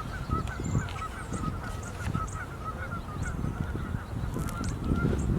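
A flock of geese honking and calling continuously in the background, many short overlapping calls, over a low rumbling noise.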